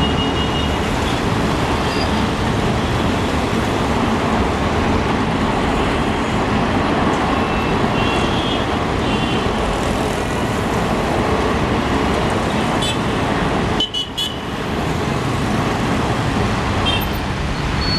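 Passenger train running past at speed: a loud, steady rumble and rattle of wheels and coaches on the track, with a few short high-pitched squeals.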